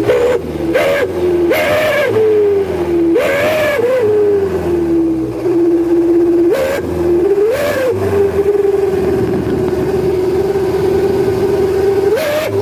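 Mitsubishi Canter truck running through a wolf-howl exhaust, giving a steady howling tone. Short throttle blips, about seven, each make the howl swell and rise in pitch, then settle back, with a long steady stretch in the second half.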